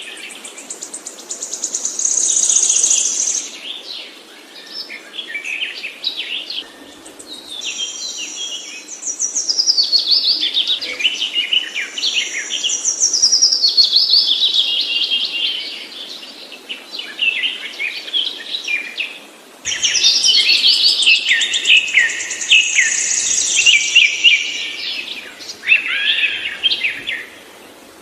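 A songbird singing long, rapid phrases of high trills and falling whistled notes, broken by short pauses. The sound changes abruptly about 20 seconds in, as if at a cut in the recording.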